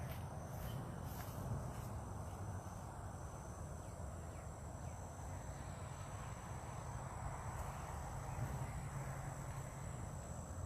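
Insects, crickets by their sound, trilling steadily in thin high-pitched tones over a low, steady rumble of outdoor background noise.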